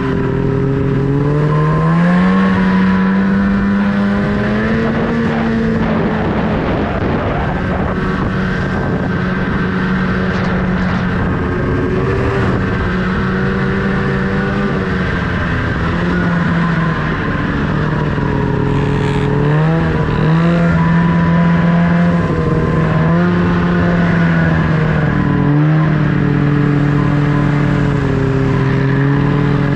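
Snowmobile engine running under throttle, its pitch climbing about two seconds in and then holding fairly steady, with a few brief dips and recoveries in the second half as the throttle eases and opens again.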